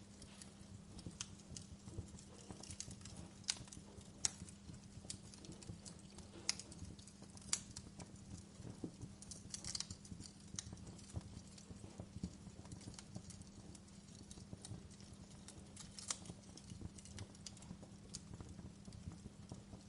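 Wood fire crackling in a fireplace: irregular sharp pops and snaps, a few louder than the rest, over a steady low hum.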